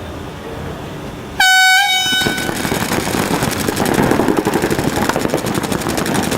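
An air horn blasts once for under a second, about a second and a half in, signalling the start of a paintball point. Paintball markers then fire rapidly, a dense run of fast pops.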